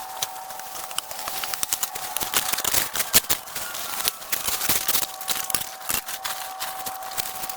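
Rapid, irregular clicking and crackling, like dry brush and branches being cut and cleared by hand, over a faint steady high tone.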